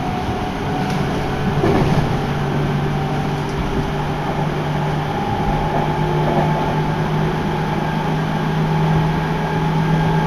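Seibu Ikebukuro Line commuter train running at speed, heard from on board: a steady rumble of wheels on rail with a low hum held throughout.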